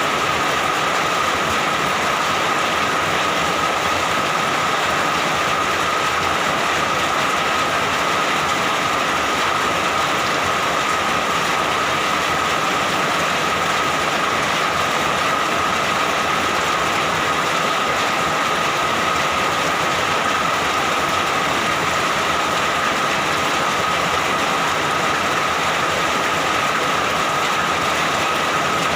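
Steady heavy rain, an even unbroken hiss with no thunder.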